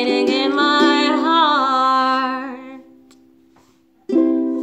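A voice singing a long held, wavering line over strummed chords on a small plucked string instrument, fading away about three seconds in; near the end a single final chord is strummed and left to ring.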